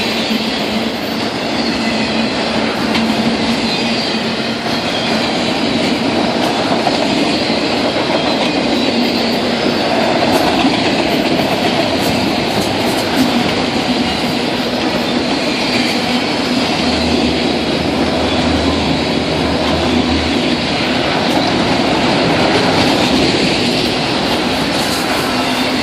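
Freight cars of a manifest train rolling past, steel wheels rumbling and clattering steadily over the rails.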